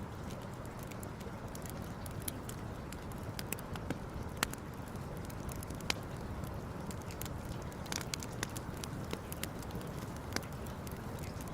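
Campfire crackling: irregular sharp pops and snaps, a few each second, over a steady low background noise.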